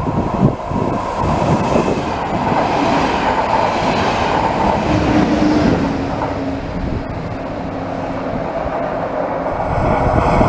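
Electric passenger trains running through a station: wheels rumbling and clattering over the rails, with a steady hum held for several seconds in the middle.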